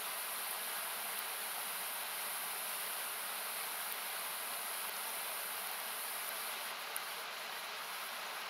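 Steady rushing of a nearby river, loud enough to sound like noise, with a few faint sharp crackles from a wood campfire, one about seven seconds in.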